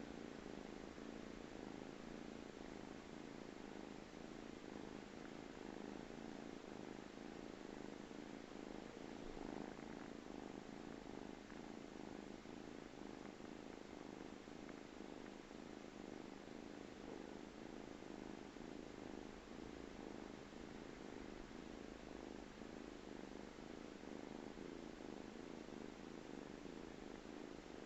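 A cat purring steadily and continuously, close by and low in level, while resting.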